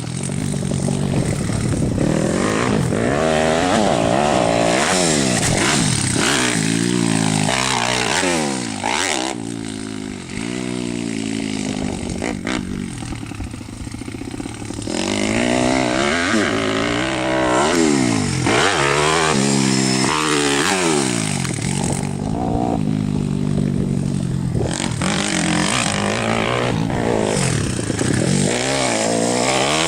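Pit bike's small single-cylinder engine revving hard and easing off again and again as it is ridden through the gears. It is quieter for several seconds in the middle, then comes back up loud.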